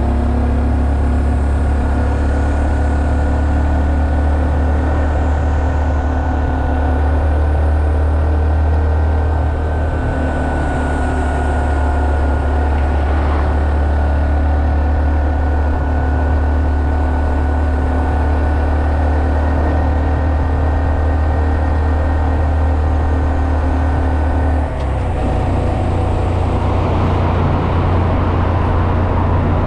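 Honda Monkey 125's air-cooled single-cylinder four-stroke engine running steadily while the bike is ridden. About 25 seconds in, the engine note changes abruptly with a brief dip in level, and more hiss follows.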